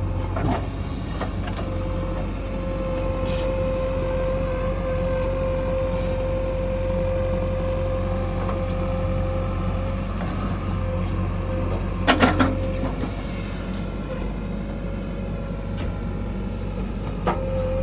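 Heavy diesel engine running steadily, with a steady high whine over it that stops about ten seconds in and comes back near the end. A quick run of loud metallic clanks about twelve seconds in.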